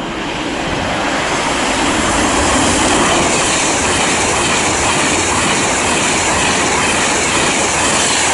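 Class 390 Pendolino electric train passing through at speed without stopping: a loud, steady rush of wheel and air noise that builds over the first couple of seconds.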